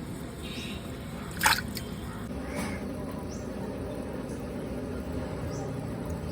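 Water splashing: one sharp splash about one and a half seconds in, followed by a couple of smaller drips, over a low steady background noise.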